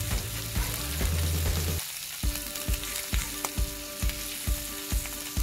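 Bacon, sausage patties and hash browns sizzling on a hot charcoal-fired griddle: a steady hiss with frequent short pops. A low rumble underneath stops about two seconds in.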